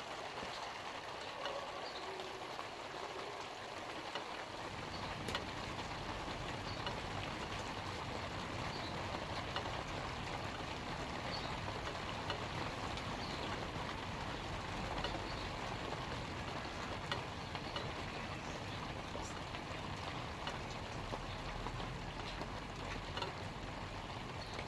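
Light rain falling steadily on leaves, an even patter with scattered drop ticks. A low rumble joins about four seconds in and continues underneath.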